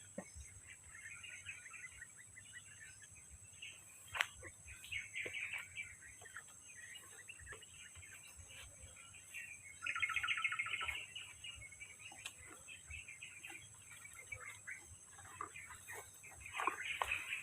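Small birds chirping and twittering outdoors, with a louder burst of rapid chattering notes about ten seconds in.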